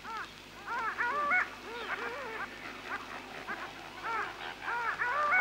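Several birds calling, short yelping calls repeated over and over and overlapping one another, loudest about a second in and again near the end.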